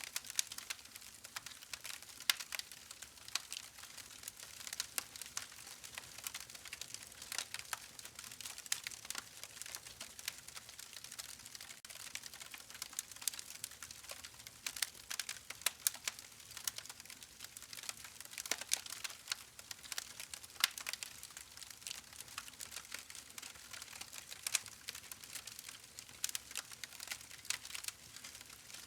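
Wood campfire crackling: a steady faint hiss of burning with frequent irregular sharp pops and snaps from the burning wood.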